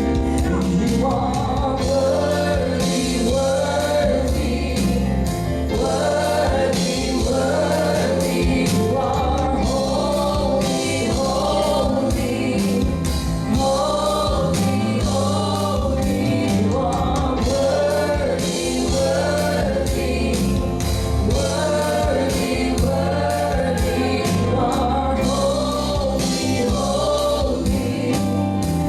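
Gospel song with a choir singing over a band with a steady beat.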